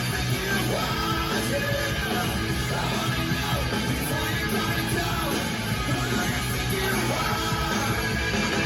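Rock music with a singer yelling over distorted guitars and a steady beat.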